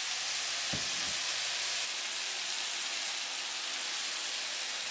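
Vegetables and seasoning sauce sizzling steadily in a hot frying pan, with two brief low thuds about a second in.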